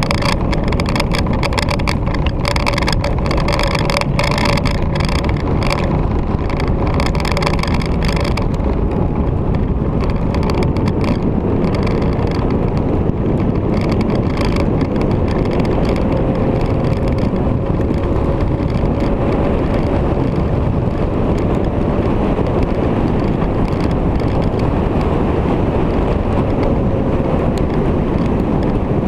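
Motorcycle running along at a steady road speed, its engine drone partly buried under heavy wind rush on the microphone, which flutters hardest in the first several seconds.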